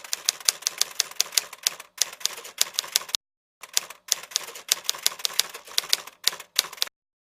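Typewriter keys clacking in quick runs of several strikes a second, broken by short pauses, then stopping abruptly about seven seconds in.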